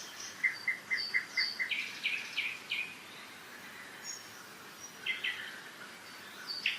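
Several forest songbirds singing in spring: a run of about six short, even chirps about half a second in, then higher repeated notes, a few scattered calls, and a quick series of notes near the end. All of it sits over a steady hiss of a mountain river.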